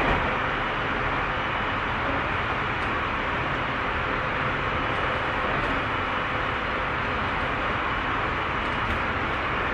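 Tobu 30000 series electric multiple unit running at steady speed, heard from inside the passenger car: an even rumble of wheels on rail with a faint steady whine.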